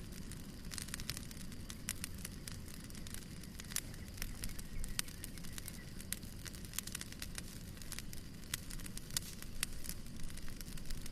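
Wood fire burning in a fireplace, with irregular sharp crackles and pops over a low steady rumble of flame.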